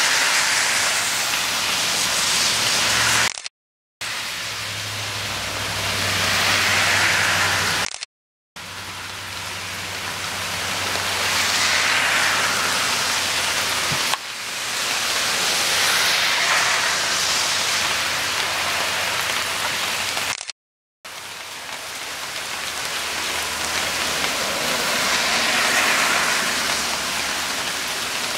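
Heavy rain falling steadily, an even hiss that slowly swells and eases. It cuts to silence for a moment three times.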